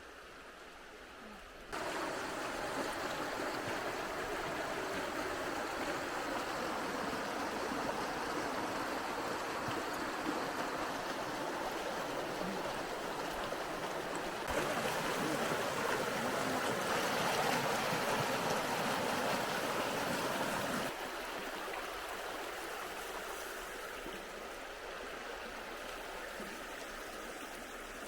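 Flowing river water, a steady rushing sound that jumps in level at a few sudden cuts: louder from about two seconds in, loudest for several seconds past the middle, then softer.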